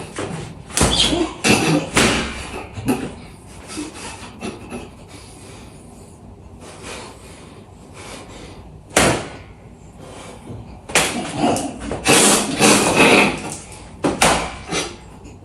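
Irregular knocks, clatters and thumps, a few louder single hits and a busier run of them near the end.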